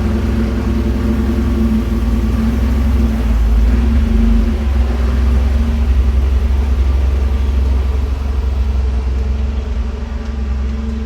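A motor vehicle's engine running at a steady speed.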